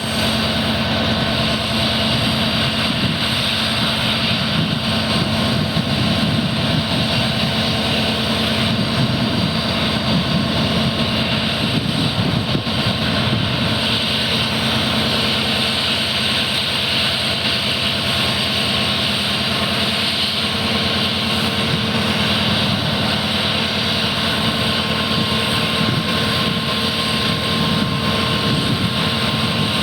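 Two WDP-4D diesel-electric locomotives coupled in multiple, their EMD 16-cylinder two-stroke engines running with a strong, steady hum.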